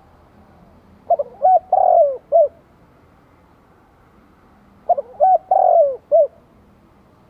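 Spotted dove cooing its call twice, each phrase a few short notes around a longer middle note, about four seconds apart.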